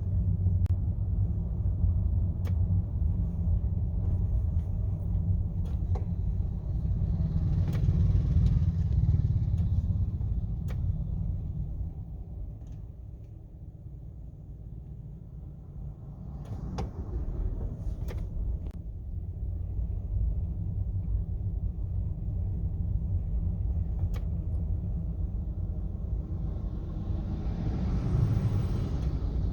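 Low rumble of a car crawling in traffic, heard from inside the cabin, dropping quieter for a few seconds midway and building again, with a few light knocks.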